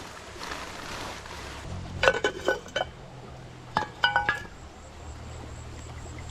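Camp cookware and utensils clinking together: a cluster of ringing clinks about two seconds in and another around four seconds.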